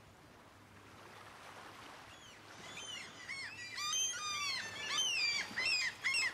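Birds chirping, many short rising-and-falling calls in quick succession, fading in over a faint outdoor hiss and growing louder toward the end.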